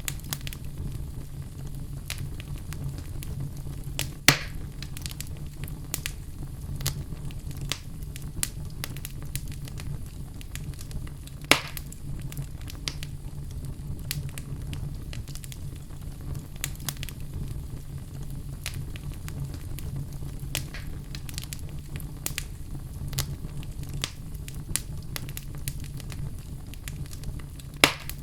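Fire burning in a fireplace, crackling steadily over a low rumble, with three louder pops: about four seconds in, near the middle, and near the end.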